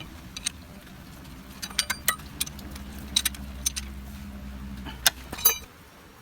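Metal tools and parts clinking and tapping, about a dozen sharp clicks in irregular clusters, over a steady low hum that cuts off suddenly near the end.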